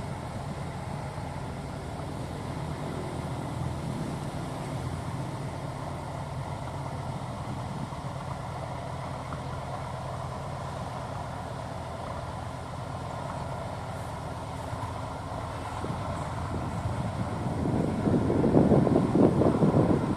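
A boat engine running steadily at a constant pitch. A louder rushing noise builds near the end.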